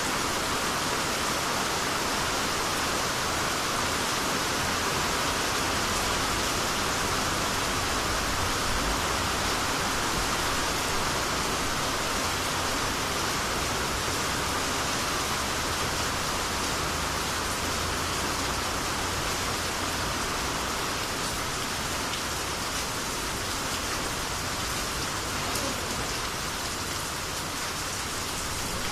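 Steady rainy-season (tsuyu) rain falling in a dense, even patter, with no break.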